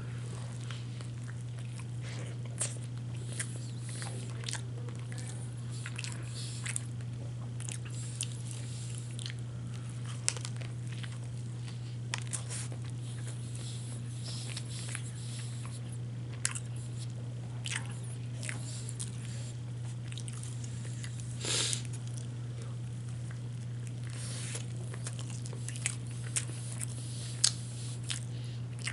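Close-up eating of a KFC chicken wrap: bites and chewing with scattered short crunches, one louder crunch a little past two-thirds of the way through. A steady low hum runs underneath.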